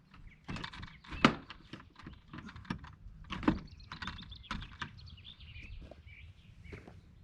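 Footsteps crunching through snow in an irregular rhythm, with two heavier steps about a second and three and a half seconds in.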